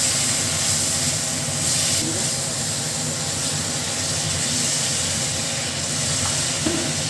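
Spice masala paste for egg biryani sizzling in oil in a kadai as it is stirred with a spatula: a steady hiss.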